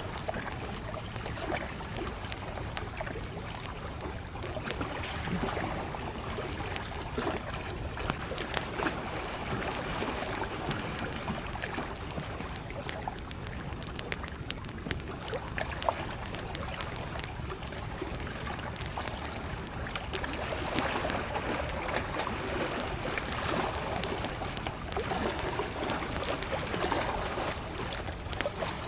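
Wood campfire crackling with many small sharp pops, over gentle lake waves lapping at the shore that swell and ease.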